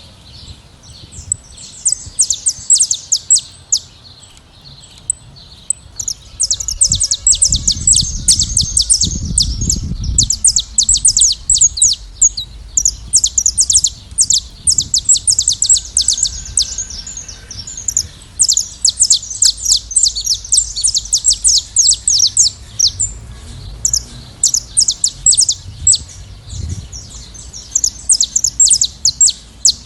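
Saffron finches singing, a dense stream of quick high chirps and trills that thickens about six seconds in. A low rumble sits under the song around eight to ten seconds in.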